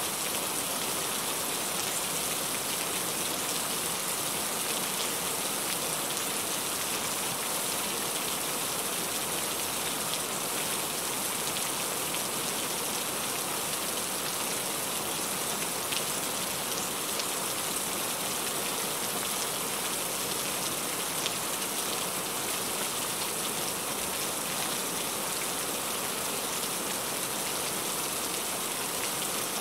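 Steady, even rain falling, with the odd louder drop ticking out of the hiss.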